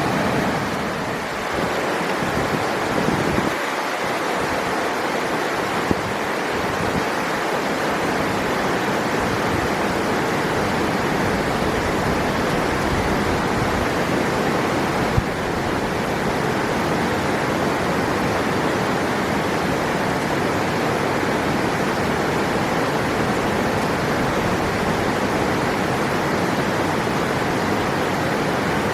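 River water rushing steadily, with a short click about fifteen seconds in.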